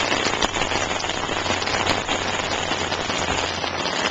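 Heavy rain falling on a wet paved road and gravel: a dense, steady patter of drops.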